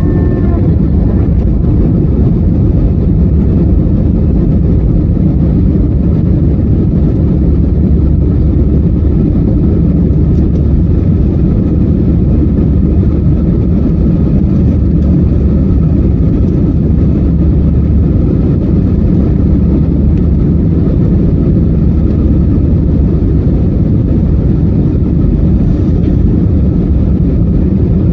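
Airliner engines heard from inside the passenger cabin during take-off: a loud, steady roar with a faint steady whine above it.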